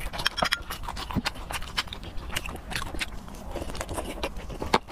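Close-miked eating sounds: wet chewing and lip smacking with many irregular sharp mouth clicks.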